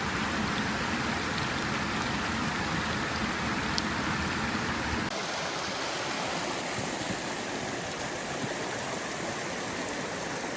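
Steady rush of a rainforest river with rain falling. About halfway through, the deep rumble drops away and a lighter, even hiss of rain remains.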